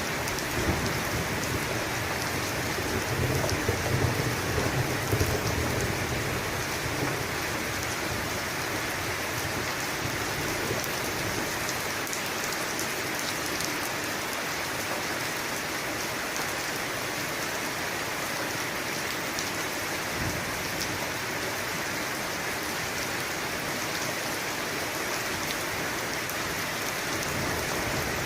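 Steady heavy rain falling, with a low rumble of thunder in the first few seconds that dies away, leaving only the rain.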